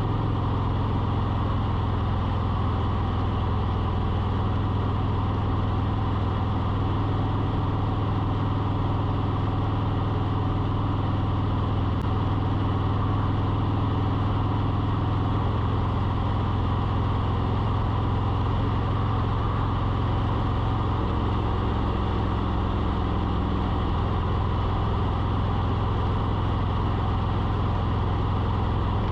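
A steady low mechanical hum with a constant hiss over it, like an engine idling, unchanging throughout.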